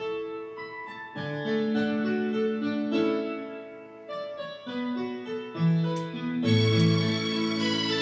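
Karaoke backing track playing a piano intro of sustained chords. About six and a half seconds in, a fuller accompaniment with a deep bass line comes in.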